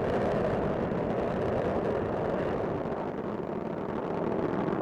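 Space Shuttle Discovery's solid rocket boosters and main engines firing during ascent: a steady, deep, even rumble.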